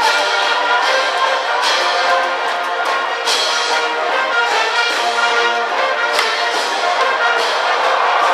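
A brass band cheering section plays stadium support music, with trumpets and trombones on a held melody and sharp accents about every one and a half seconds.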